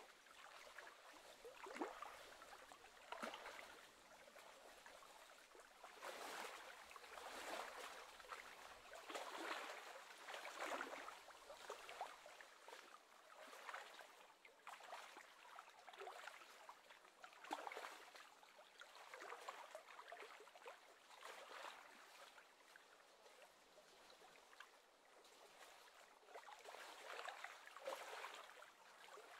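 Faint lapping of small wind-driven waves on the lake water, coming in irregular surges.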